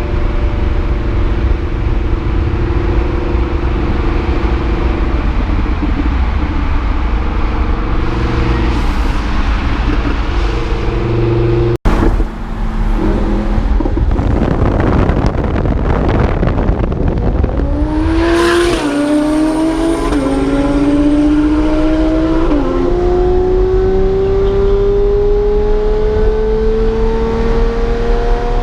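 A high-performance car engine holds a steady note, then gives way to a loud rush of noise after a brief cut. It then accelerates hard, its pitch climbing steadily through a long pull with a couple of short dips like gear changes.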